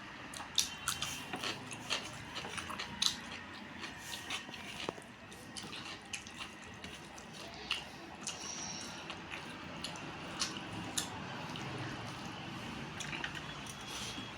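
A person eating close to the microphone: irregular wet clicks and smacks of chewing and mouthing food.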